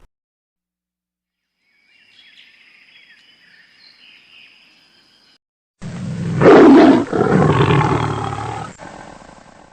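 A large wild animal roaring: one loud, rough, low roar starting about six seconds in and trailing off over about three seconds, after a faint stretch of background ambience.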